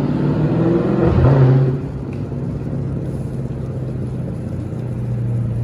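Street traffic: a motor vehicle's engine running with a steady low hum, louder and swelling for the first couple of seconds, then settling to an even drone.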